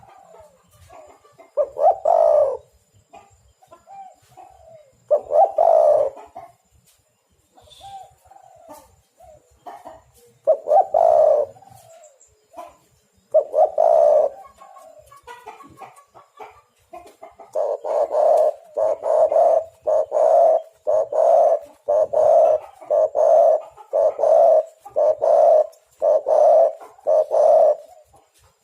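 Spotted dove (tekukur) cooing: a few separate coos spaced several seconds apart, then a fast run of about a dozen coos, roughly one a second, in the last ten seconds.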